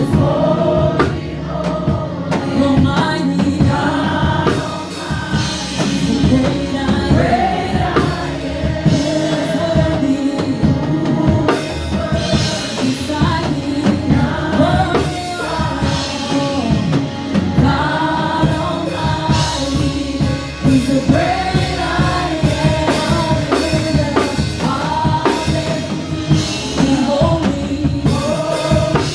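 A live gospel worship song: voices singing together over a band with a drum kit keeping a steady beat.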